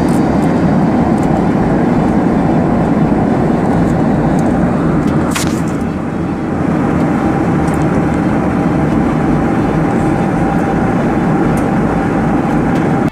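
Steady rumble of a jet airliner's engines and rushing air, with a brief hiss about five seconds in.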